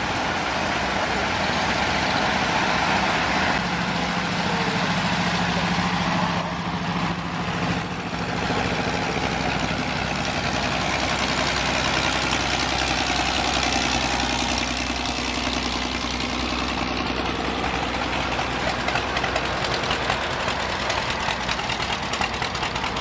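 An engine idling steadily, a continuous low drone.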